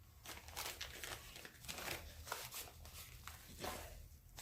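Packaging crinkling and rustling in irregular handfuls as spare chainsaw oiler lines are sorted through by hand.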